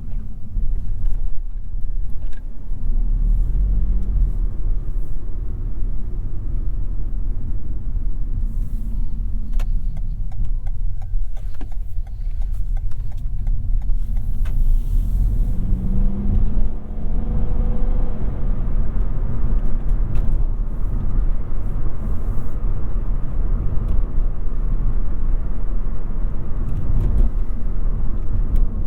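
Toyota Yaris 1.5 Hybrid driving through tight streets: a steady low rumble of tyres and road, with scattered clicks and knocks. About halfway through, a pitched hum rises for a couple of seconds.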